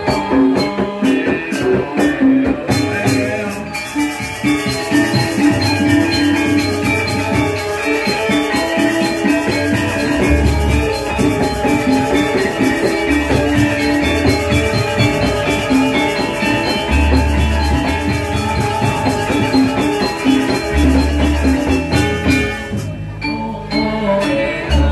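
Balinese gamelan playing: tuned bronze metallophones ring out a fast, shimmering figure over drums, with a deep gong stroke every few seconds.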